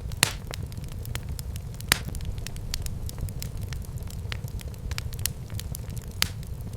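Fireplace fire crackling: many sharp pops and snaps over a steady low rumble of flames, with two louder pops, one just after the start and one at about two seconds.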